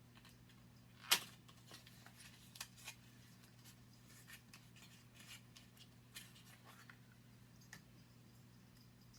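Small handling sounds of a cosmetics package, light clicks and rustles, the loudest a single sharp click about a second in, over a steady low hum.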